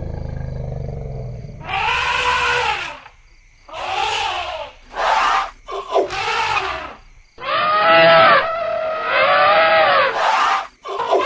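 Elephants calling: a low rumble at first, then about six loud trumpeting calls in quick succession, each rising and falling in pitch and lasting about a second.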